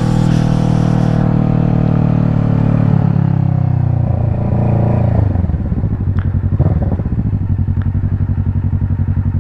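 Kawasaki Ninja 650's parallel-twin engine. Its note falls over the first five seconds or so as the bike slows, then it idles with a steady pulse.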